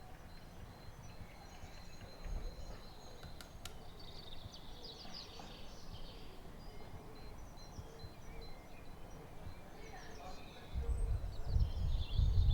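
Small birds singing and chirping over a faint steady background. Near the end a low rumble rises sharply.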